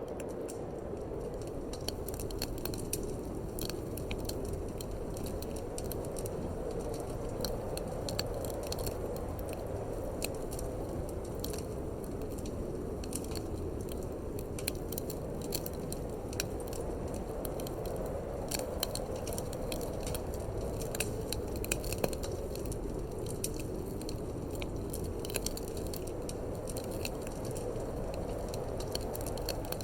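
Wood fire in a fireplace crackling, with frequent irregular snaps and pops, over a steady low rush of wind that swells and eases slowly.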